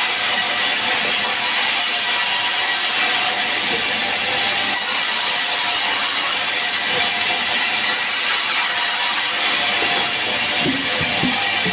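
Sawmill saw running and cutting timber, a loud steady rushing noise with no break.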